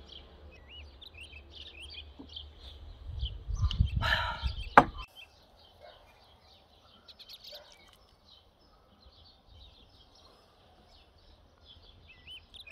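Small songbirds chirping and singing throughout. About four seconds in, a short burst of rustling and low rumble ends in one sharp knock.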